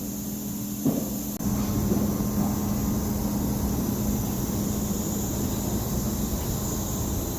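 A single knock, then a steady motor hum that starts about a second and a half in and holds an even pitch.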